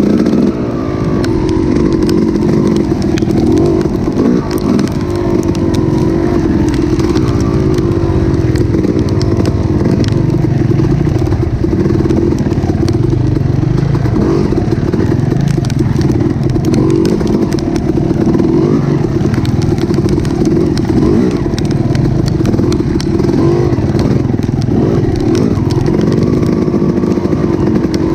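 An engine running steadily for the whole stretch, its pitch wavering up and down as the speed changes.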